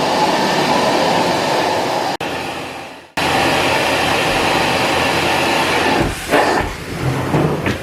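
Carpet-cleaning extraction machine's vacuum running steadily. It fades and drops out about three seconds in, then comes back suddenly, with a few low bumps and changes near the end.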